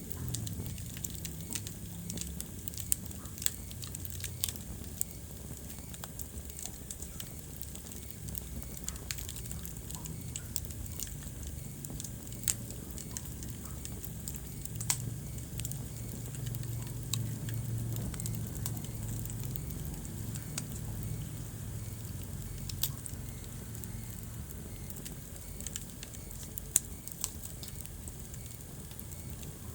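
Wood fire crackling in a fireplace, with a dense scatter of small snaps and several louder pops over a low steady rumble.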